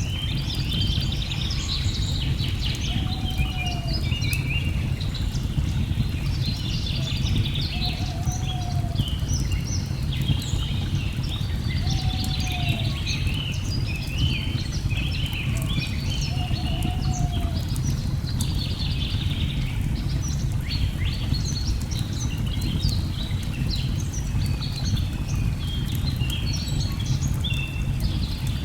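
Rainforest ambience: many birds chirping and singing over a steady low rush of falling water. A short low call repeats about every four seconds through the first two-thirds.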